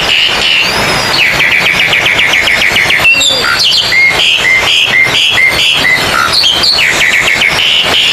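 Oriental magpie-robins singing over one another, as at a songbird contest. There is a fast run of repeated chirps, then a series of short whistled notes about three a second, with other calls overlapping.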